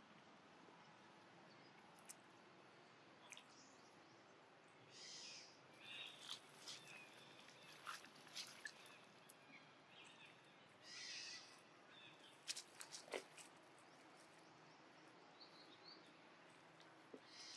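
Faint, scattered animal calls over near silence, with two short hissy calls and a quick run of sharp clicks.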